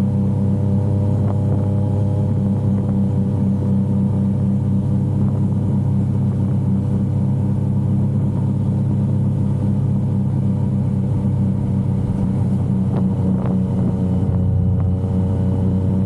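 Yamaha XSR900 motorcycle's inline-three engine running at a steady, nearly constant pitch while riding, with a slight change in engine note near the end.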